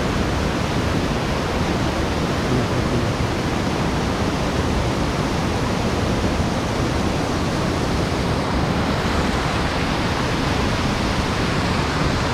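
Mountain stream water rushing steadily, a loud, even noise of falling and flowing water without a break.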